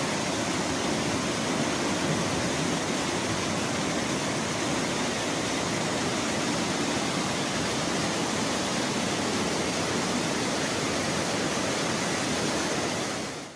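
Fast-flowing floodwater rushing, a steady, even noise with no breaks.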